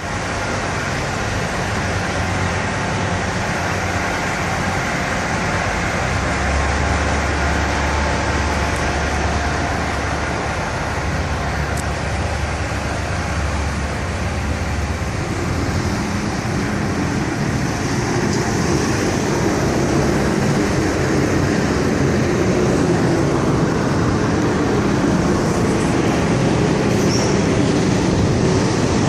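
Detroit diesel engine of a 2011 Freightliner Cascadia semi truck idling steadily, a constant low rumble that grows heavier for several seconds partway through.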